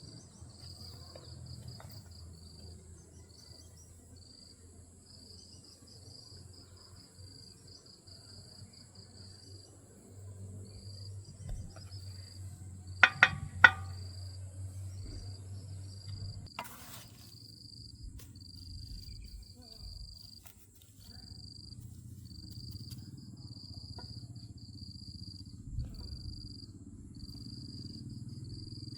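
Insects chirping in a steady run of high pulses, with a high continuous whine above them. About halfway through come two sharp ringing strikes close together, the loudest sounds, and a single sharp click a few seconds later.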